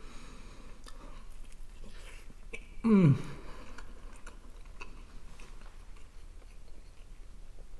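A man chewing a mouthful of homemade meat cutlet with mashed potato, with soft wet chewing and small mouth clicks. About three seconds in there is a short hum that falls in pitch.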